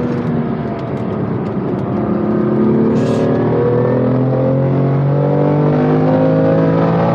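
BMW M2 Competition's twin-turbo inline-six heard from inside the cabin: a gear change near the start, then the engine pulling through the gear with its pitch climbing steadily. A brief hiss about three seconds in.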